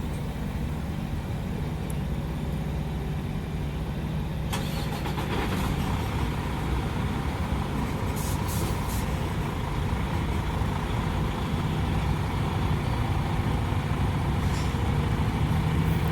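Diesel engine of a 2019 Freightliner straight truck, a Detroit DD13 inline-six, running steadily and growing slightly louder through the stretch, with a few faint light clicks about eight seconds in.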